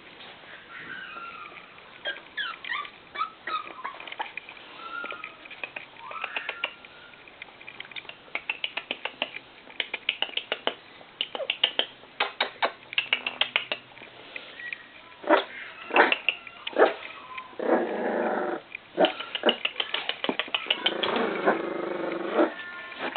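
Bull terrier puppies whimpering and squeaking in thin, gliding cries, with growls and yips in two longer stretches in the second half. Many short sharp clicks run among the cries.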